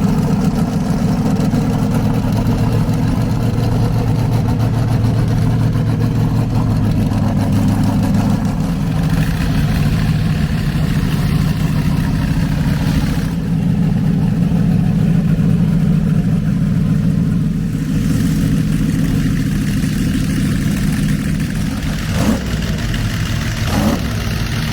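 Light modified pulling tractor's engine running hard and loud under load during a pull, a dense steady drone that shifts in pitch a few times along the way.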